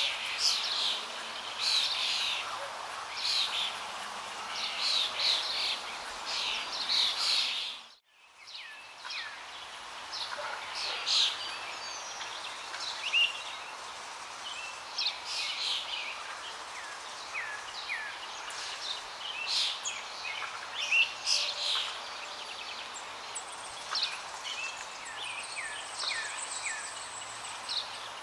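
Small birds chirping repeatedly, many short high calls over a steady background hiss. The sound drops out briefly about eight seconds in and fades back in.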